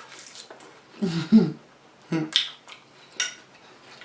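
A person eating tender rotisserie chicken close to the microphone: sharp wet lip smacks and mouth clicks, about three of them, with a couple of short hummed sounds from the eater about a second in and again near the middle.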